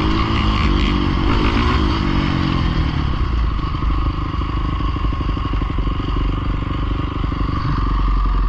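Pit bike engine revving, its pitch rising and falling, then settling into a steady idle about three seconds in.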